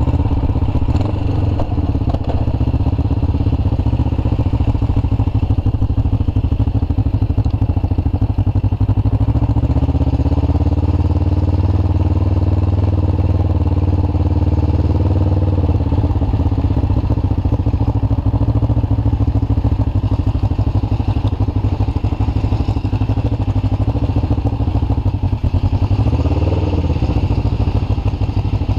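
Kawasaki cruiser motorcycle's V-twin engine running at low road speed, heard close up from the rider's seat, its pitch dipping and rising as the bike slows and turns. Near the end it settles toward idle.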